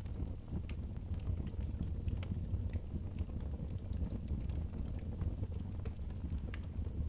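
Wood fire crackling in a fireplace, with scattered sharp pops over a steady deep rumble of wind.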